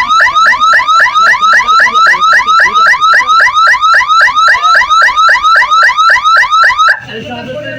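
Electronic warning hooter at a railway level crossing sounding a fast, even series of rising chirps, about five a second, which cuts off abruptly near the end. It is the signal that the gate is closing for an approaching train.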